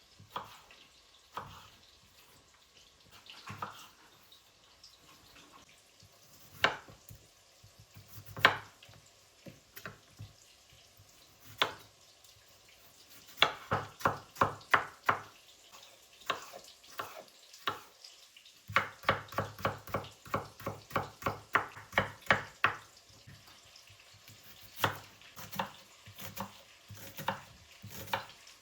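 A series of light clicks and taps. Single ones come first, then quick runs of about four a second near the middle and again in the second half.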